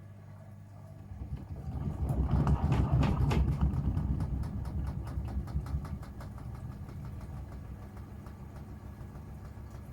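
Gorenje UseLogic 65165 washing machine running mid-wash. About a second in, a louder stretch with rapid, even ticking builds up, peaks, and fades after a few seconds, which fits the drum turning over a load of laundry and water. After that the machine settles into a steady low hum.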